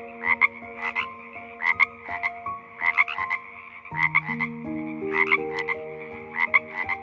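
Repeated croaking calls in short rapid-pulsed bursts, about one to two a second, over soft background music with long held notes that change pitch every second or so.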